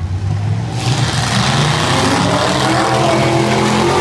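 Several demolition derby car engines revving hard together, getting louder about a second in.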